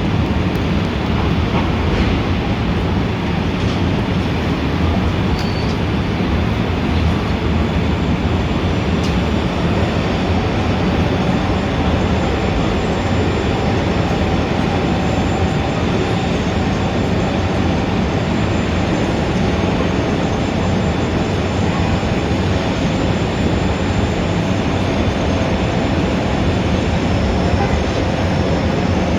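Steady, dense city traffic noise: a continuous low rumble with a few faint steady tones above it and no distinct single events.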